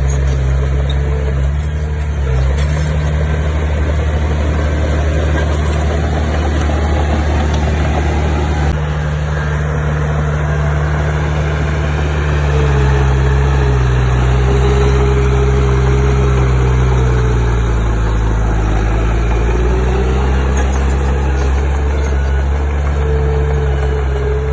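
Diesel engine of heavy construction machinery running steadily; its pitch sags for several seconds in the middle and then climbs back.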